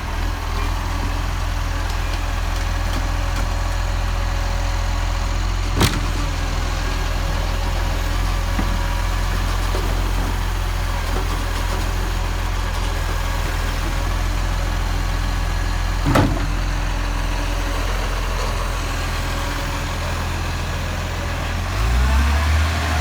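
Garbage truck engine running steadily with a low hum. There are two sharp knocks, about ten seconds apart, and the engine note rises near the end.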